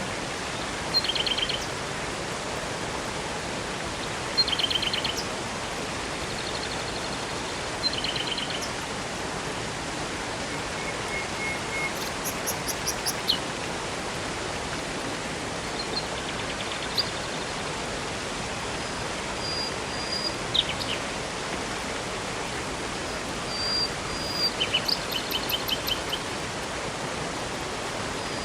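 Steady rushing of a river and waterfall, with songbirds chirping and trilling on and off, in short phrases about every few seconds.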